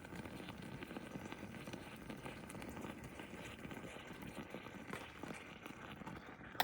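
Steady, dense crackling of food cooking over a campfire, with a sharp click at the very end.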